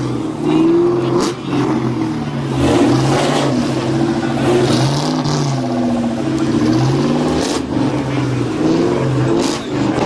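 A car engine revved again and again, the pitch climbing and dropping with each blip of the throttle.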